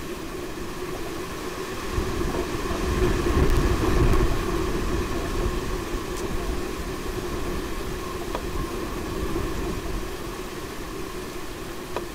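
Gale-force wind buffeting the microphone, a low rumble that gusts hardest about three to four seconds in, over a steady faint hum.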